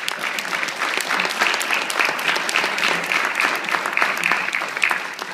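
Audience applauding, with dense, even clapping that swells at the start and begins to fade near the end.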